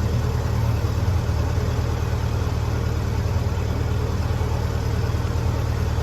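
Lincoln SA-200 engine-driven welder's gas engine running steadily, a constant low drone.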